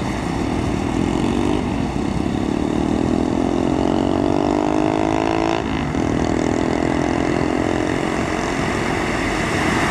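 Medium-size bus's diesel engine pulling on the highway. Its note rises for a few seconds, drops sharply at a gear change about halfway through, then runs on steady over tyre and traffic noise.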